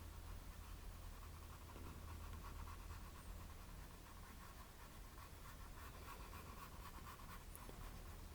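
Faint scratchy brushing of a small paintbrush working acrylic paint onto a canvas, over a low steady hum.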